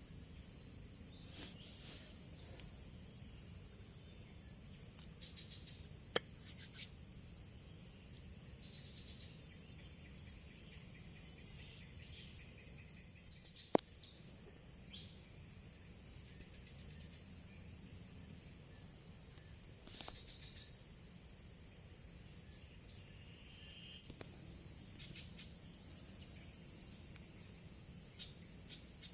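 Forest insect chorus: a steady, high-pitched insect drone with a short call repeating about once a second. Two sharp clicks stand out, about 6 and 14 seconds in.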